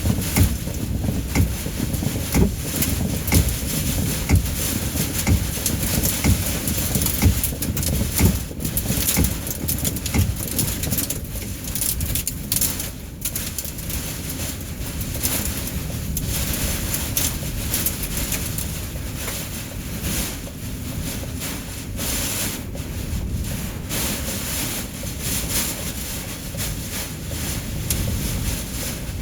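Heavy rain and hail pelting a car in a severe storm, with wind gusting against it. A dense steady rush with many sharp hits scattered throughout.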